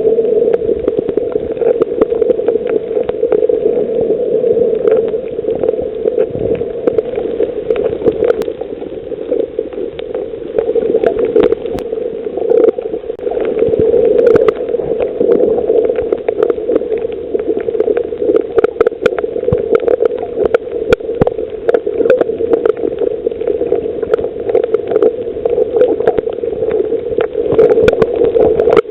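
Underwater ambience on a coral reef: a steady low drone with a continuous scatter of sharp crackling clicks, the crackle typical of snapping shrimp.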